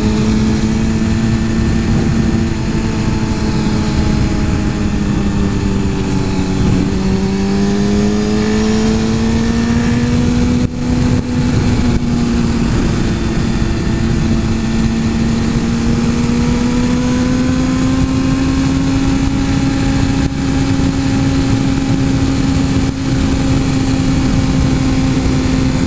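Suzuki GSX-R 1000 superbike's inline-four engine running at high revs under way, around 8,000 rpm, over a steady rush of wind and road noise. The engine note sags a little about six seconds in, then climbs slowly and holds.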